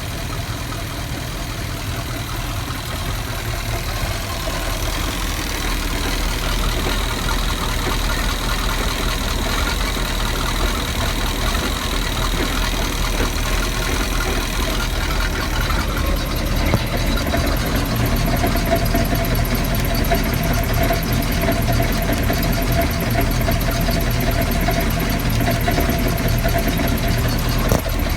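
Volvo Penta 5.7GI marine V8 engine running steadily, with a clunking coming from the rear of the engine, heard best about 6 to 12 seconds in and again from about 17 seconds on. The cause of the clunk is unknown.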